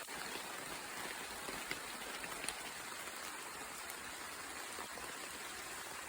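Rain falling in a forest: a steady hiss of rain with scattered individual drops tapping, a few of them louder.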